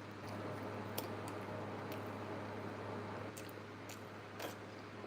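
Person eating: soft chewing with a few scattered sharp clicks and crunches, over a steady low hum.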